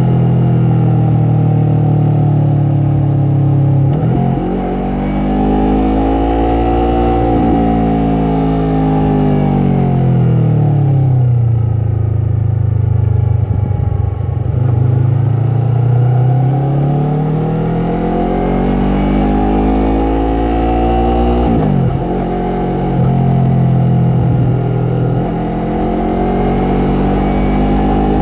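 Yamaha MT-03 motorcycle's parallel-twin engine and exhaust under way. The pitch climbs and drops suddenly at upshifts, about 4 s, 7.5 s and 21.5 s in; it falls away on a long deceleration around 10 s in, runs low for a few seconds, then climbs again.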